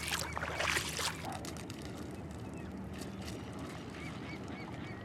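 Splashing through shallow water and wet mud for about the first second, then a steady low outdoor background with a few short, faint bird calls.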